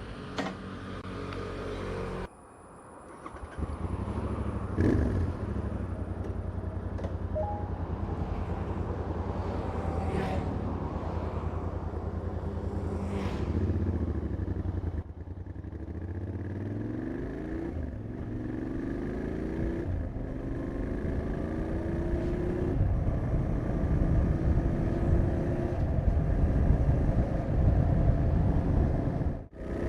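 Royal Enfield Interceptor 650's parallel-twin engine on its stock exhaust, started and running at a steady idle. Later it is revved up several times in rising swells and runs louder near the end.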